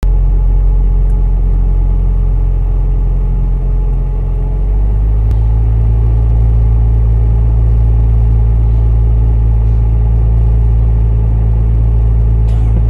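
Car engine idling while stopped, a steady low rumble heard from inside the cabin; its hum shifts a little lower and steadier about five seconds in.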